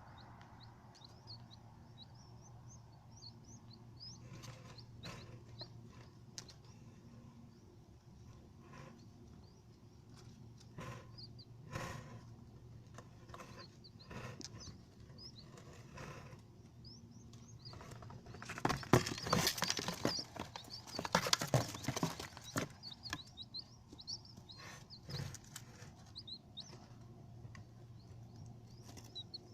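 Small birds chirping: many short, high chirps throughout, with scattered clicks and knocks and a louder scuffling burst from about 19 to 22 seconds in.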